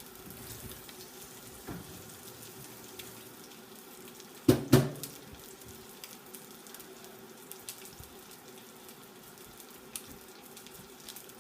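Panko-crusted chicken breasts pan-frying in hot oil, with a steady sizzle and small crackles. Two sharp knocks come close together about four and a half seconds in.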